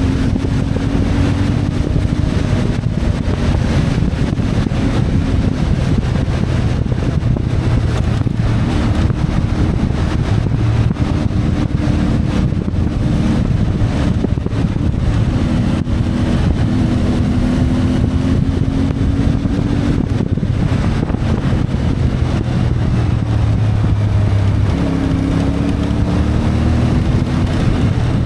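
CFMoto 450MT motorcycle's parallel-twin engine running under way, its note rising and falling with the throttle, with wind noise on the microphone.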